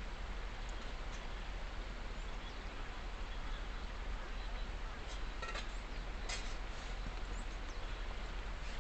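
Wood campfire crackling, with a few sharp pops a little past the middle, over a steady rushing noise.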